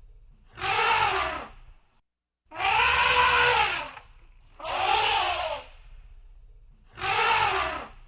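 Elephant trumpeting: four calls about a second long each, every call rising and then falling in pitch, with a low rumble beneath.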